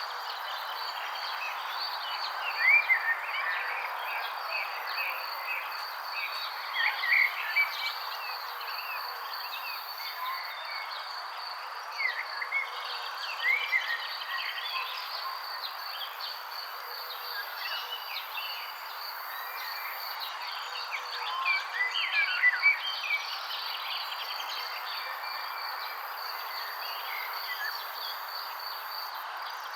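Birds chirping in scattered clusters of short, quick, curving notes, loudest a few times through, over a steady high insect trill and a constant hiss of background sound.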